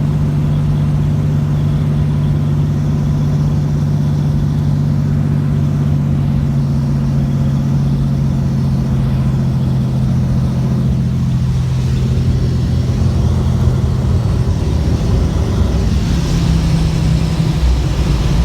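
Cessna 206's piston engine and propeller droning steadily during the landing approach, a strong low hum. About three-quarters of the way through the pitch drops a little lower, as with power coming back.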